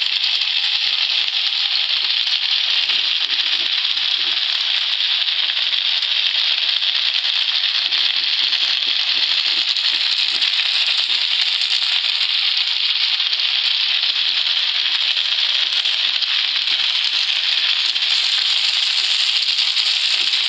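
Chicken steaks frying in a hot pan: a steady, loud sizzling hiss with fine crackle.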